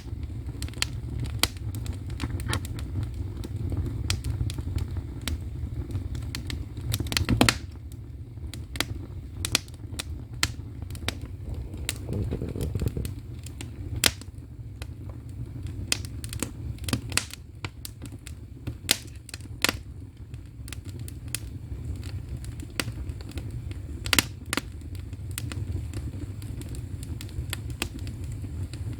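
Split firewood burning in the firebox (agungi) of a Korean ondol floor-heating system: irregular sharp crackles and pops over a steady low rumble of the fire, with a louder pop about seven seconds in and another near the end.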